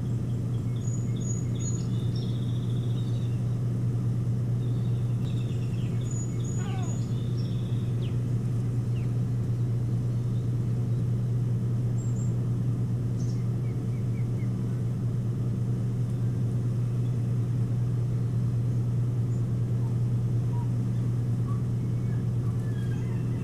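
Scattered high, thin bird calls: short chirps and piping notes, a falling call about seven seconds in, and a quick run of notes near the end, over a steady low hum.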